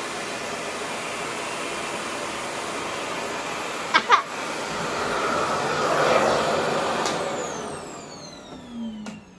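Revair reverse-air hair dryer running with a steady suction rush, with two sharp knocks about four seconds in. About seven seconds in it is switched off and the motor's whine falls away as it spins down.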